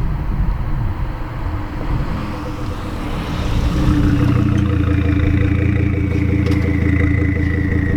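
Volvo V70 2.5T's turbocharged inline five-cylinder through a catless straight-pipe exhaust. The note is uneven at first, then settles into a steady drone about halfway through, with a thin high whine over it.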